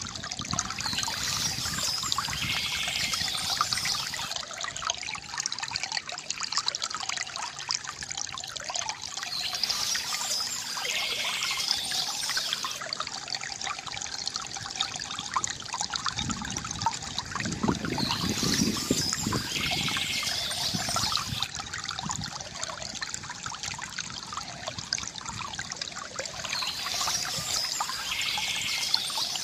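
Small stream of water trickling and splashing steadily over stones, with a brighter, hissier stretch that comes back about every nine seconds.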